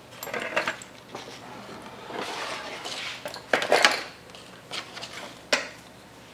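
Lengths of rubber hydraulic hose being handled on a workbench: rustling, scraping and light knocks, with one sharp clack about five and a half seconds in.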